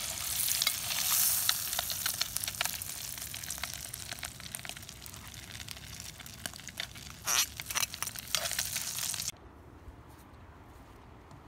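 Egg-stuffed tomatoes frying in hot oil in a cast-iron pan: steady sizzling and crackling, with clicks and scrapes of a metal spoon and knife and a few louder knocks. The sizzle cuts off suddenly about nine seconds in, leaving a low quiet background.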